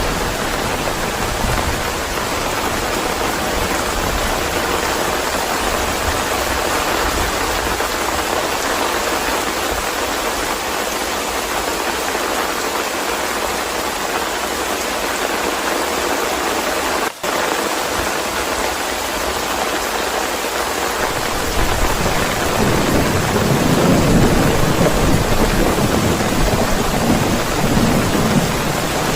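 Steady heavy rain, with a low rumble of thunder building over the last third. The sound drops out for an instant about two-thirds of the way through.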